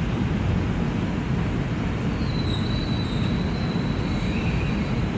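An R142 subway train running through a tunnel, heard from on board: a steady rumble of wheels on rails. About two seconds in a thin high whine joins it and holds.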